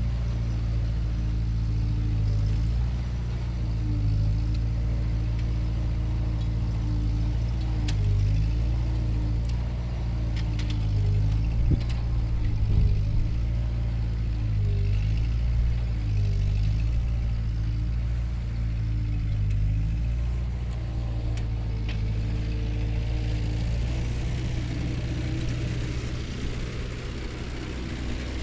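Ford 9N/2N tractor's four-cylinder flathead engine running steadily, its note dipping and recovering every couple of seconds, with a brief clatter about twelve seconds in.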